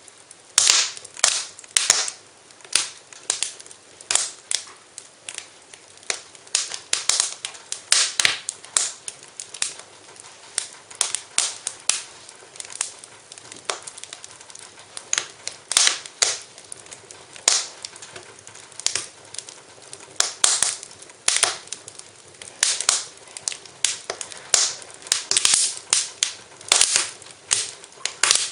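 Wood fire crackling in a fireplace: sharp pops and snaps at irregular intervals, one to three a second, over a soft hiss.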